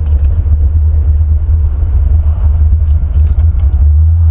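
Holley 950-carbureted Buick Stage-1 455 V8 running steadily with a loud low rumble. Its four-corner idle mixture screws have been mis-set, and the owner says the air-fuel mixture is off.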